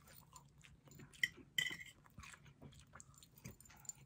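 A person chewing a mouthful of food close to the microphone: soft, scattered mouth clicks, with two sharper clicks a little past a second in.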